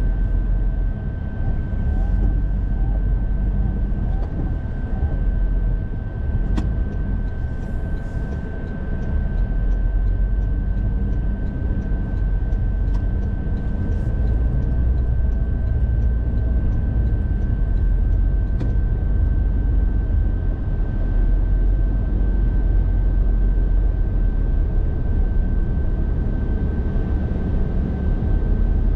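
Car driving along a road, heard from inside the car: a steady low rumble of engine and tyres, with a thin steady high whine and a run of faint light ticks in the middle.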